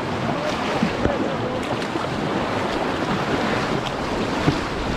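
Whitewater rapids rushing and churning steadily around a raft, with wind buffeting the microphone.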